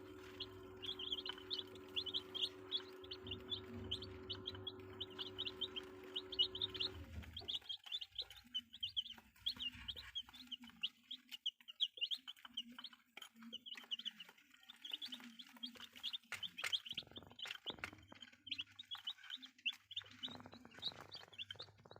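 A brood of chicks peeping continuously, many short high chirps overlapping. A steady hum runs underneath and cuts off about seven seconds in.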